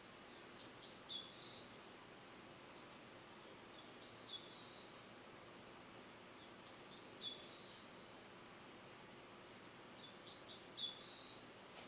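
A songbird singing the same short phrase four times, about three seconds apart: a few quick chirps ending in a longer, higher note.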